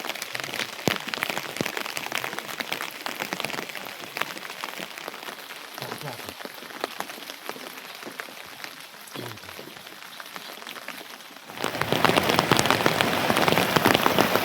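Rain falling, with many separate drops ticking on surfaces. About eleven and a half seconds in, it becomes suddenly louder and denser, as a heavy downpour.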